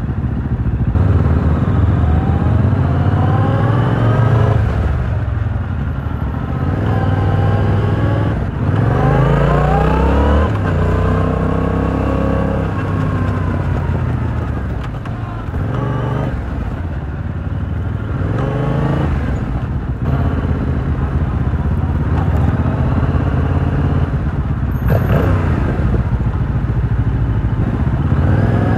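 A 2022 Yamaha R7's parallel-twin engine running through its stock exhaust while riding. The pitch rises repeatedly as the bike accelerates, drops at each gear change, and settles into steadier running in between.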